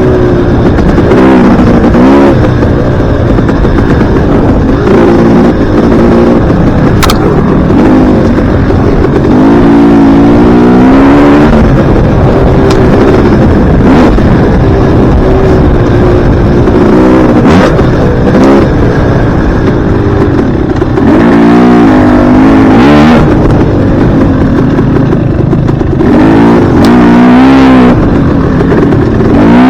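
Dirt bike engine, loud and close, revving up and falling back again and again as the rider works the throttle and gears, with several sharp rises in pitch.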